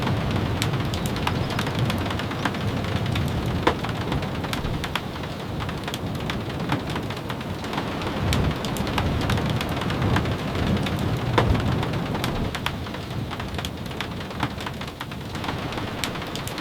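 Steady rain on a wooden cabin, an even hiss dotted with sharp ticks, under a low rumble that swells and fades every few seconds.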